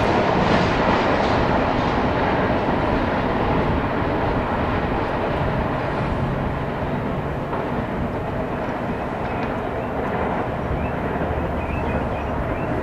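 CSX freight train's cars rolling past on the rails, a steady noise of wheels and cars that slowly fades as the end of the train goes by.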